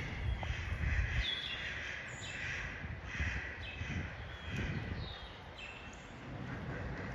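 Birds calling again and again, short calls that some glide down in pitch. A low rumble sits under them in the first second or so.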